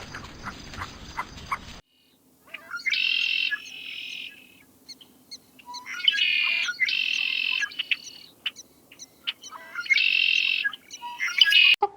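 A bird giving loud, harsh calls, about half a second each and often in pairs, repeated every few seconds. Before them, a short stretch of a different noisy recording with faint clicks cuts off suddenly.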